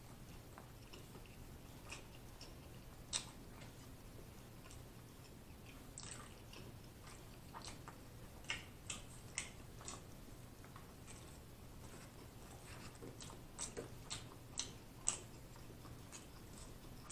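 Faint, close-miked chewing of a mouthful of Italian beef sandwich: scattered soft wet mouth smacks and clicks, busiest in the second half.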